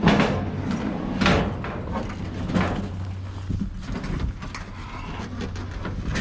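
A heavy object being shoved and dragged up a metal ramp, metal scraping and clanking on metal in a series of uneven scrapes. The loudest come right at the start and again about one and two and a half seconds in, over a steady low hum.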